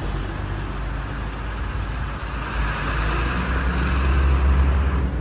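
Motor vehicle running: a steady low engine hum with a rushing road noise that grows louder from about halfway through.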